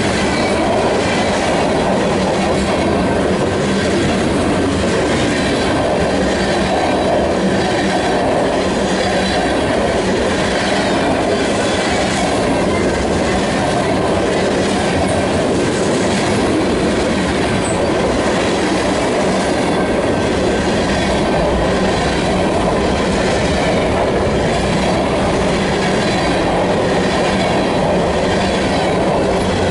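Union Pacific freight cars, tank cars and covered hoppers, rolling past close by: the steady, loud rumble and clatter of steel wheels on the rails, unbroken throughout.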